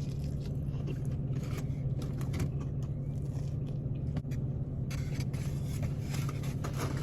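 Steady low hum of an idling car, with light scraping and rustling over it, louder about five seconds in.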